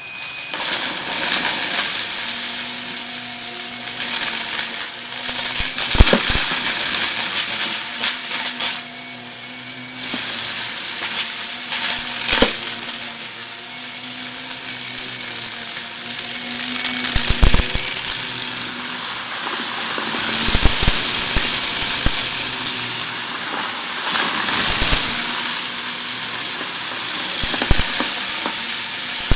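Vacuum cleaner running steadily while sucking up crunchy debris, with irregular sharp crackles and clicks as bits rattle up through it.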